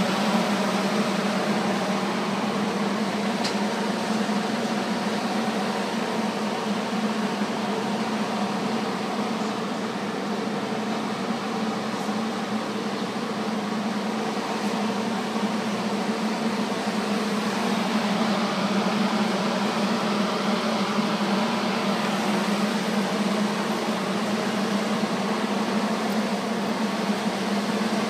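Steady mechanical hum of a Metra commuter train standing at the platform, its running equipment droning evenly without change.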